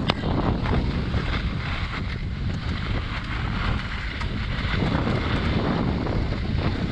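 Wind buffeting the microphone as a skier moves downhill, over a steady hiss and scrape of skis running on snow.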